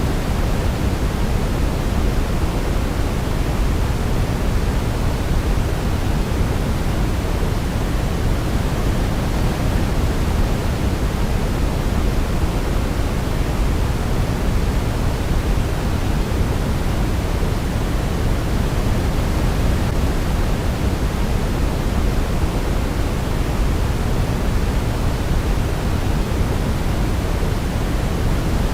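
Steady sleep white noise: an even, unbroken rushing hiss, heavier in the low end, with no melody.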